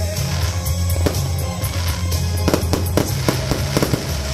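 Aerial fireworks bursting over loud music: a string of sharp bangs and crackles, coming thickest in a quick cluster past the middle.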